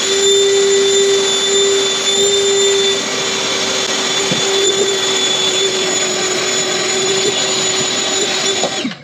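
A vacuum cleaner is switched on, runs steadily with a high motor whine while cleaning out the gap in the laminate floor, and is switched off, winding down near the end.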